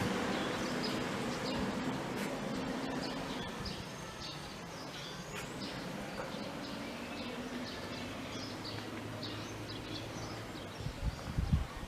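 Small birds chirping over and over, many short high chirps, over a steady low hum of background noise, with a few low thumps near the end.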